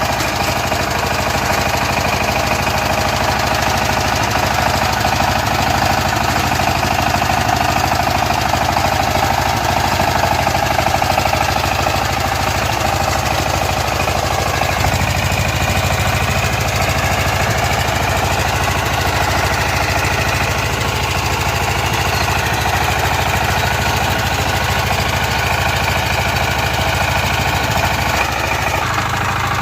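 Power tiller engine running steadily, with a knocking beat; its low note grows stronger about halfway through.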